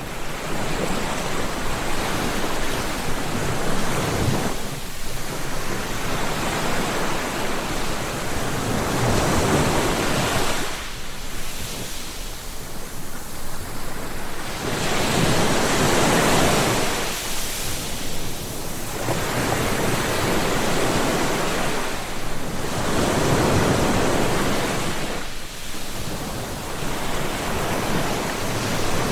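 Sea waves breaking and washing on a shore, one surge after another every few seconds, with some wind noise.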